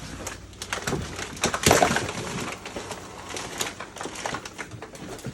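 Crunching, crackling and rattling of piled household trash being stepped on and shifted, in a run of irregular crackles with the loudest crunch about two seconds in.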